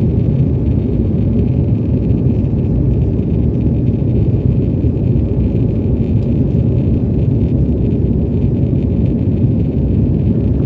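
Embraer E190 cabin noise during takeoff: a steady rumble of the GE CF34-10E turbofans and airflow heard from a seat in the rear cabin.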